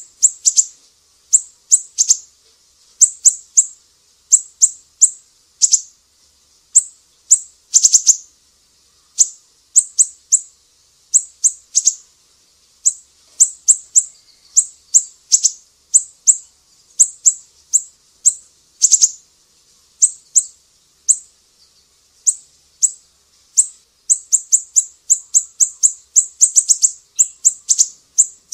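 Small songbirds giving high, sharp chirps, repeated in quick clusters of two to four notes with short gaps, running into a faster string of notes near the end.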